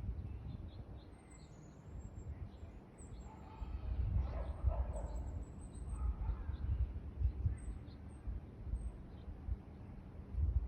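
Outdoor ambience: small birds chirping in short high notes over a low, uneven rumble, with a louder pitched animal call, perhaps a distant dog, about four to five seconds in.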